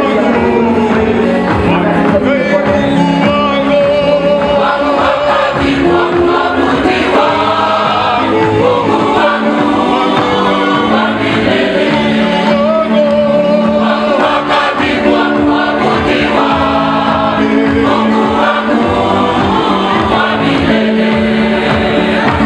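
A choir of many voices singing a gospel hymn.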